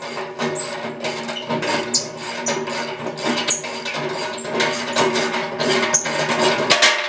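Socket wrench ratcheting on a 7/8 bolt inside a Thunderbolt siren's metal horn: rapid irregular clicks, with the metal ringing at a few steady pitches. The clicking stops just before the end, and the ringing dies away over about a second.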